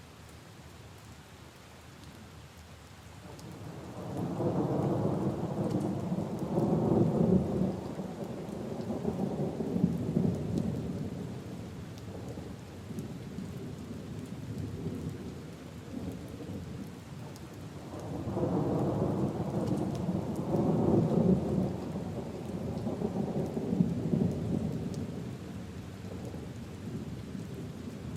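Steady rain falling on leaves and puddles, with two long rolls of thunder. The first begins about four seconds in and the second about eighteen seconds in, each rumbling low for several seconds before fading back into the rain.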